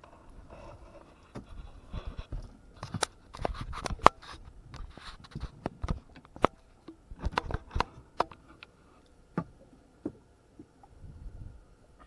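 Irregular clatter of sharp knocks, clicks and scrapes, coming in clusters with short lulls.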